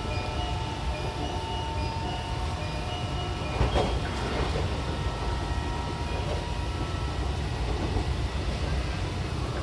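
Odakyu 70000-series GSE electric train running, with the rumble of wheels on rail and the steady whine of its full-SiC VVVF inverter traction motors. A louder clatter comes about three and a half seconds in.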